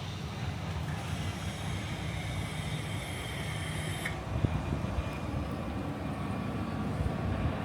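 Southeastern electric train running: a steady low rumble with a high hiss and faint whine over it, the hiss dropping away suddenly about four seconds in.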